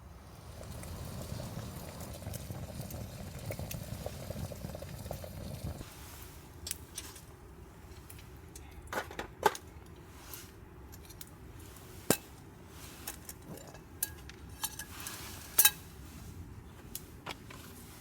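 Metal camp cookware being handled: a steady rushing noise for the first few seconds, then a scatter of clinks and knocks, one with a short metallic ring.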